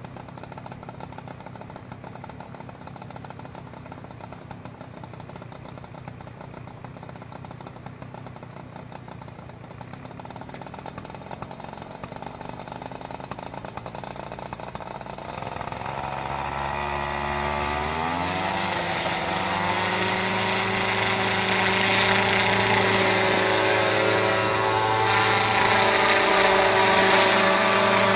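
Helicopter engine running, then spooling up: for the first half a steady low hum, then over a few seconds the pitch rises together with the loudness as the rotor speeds up, settling into a loud, steady higher-pitched running with a rushing noise.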